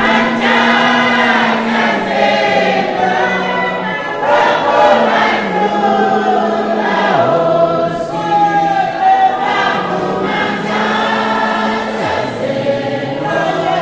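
A choir singing with several voices, holding long notes over a steady low part.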